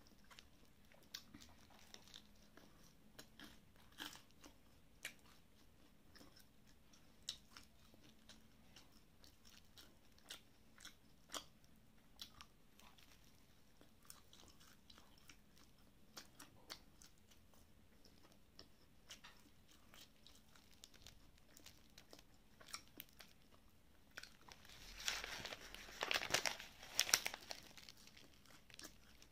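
Faint crunchy chewing and biting of a crispy crumb-coated Taiwanese fried chicken cutlet, in scattered small clicks, with a louder stretch of crunching near the end.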